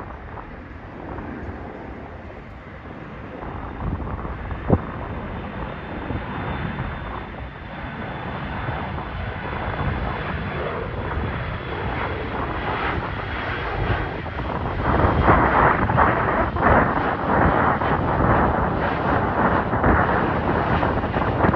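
Jet airliner departing: its engine roar builds steadily and is loudest near the end, with a faint high turbine whine. There is a single sharp knock a little under five seconds in.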